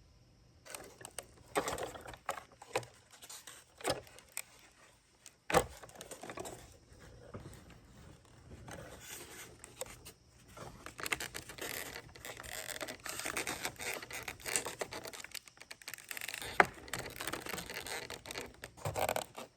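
Handling noise of a foam RC model airplane being fitted back onto its wing: irregular scrapes and rustles with light knocks, and sharper knocks about five and a half seconds in and near the end.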